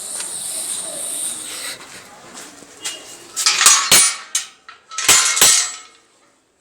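Metallic clinking and clattering, with four sharp knocks in two pairs in the middle of the stretch, after a hiss at the start.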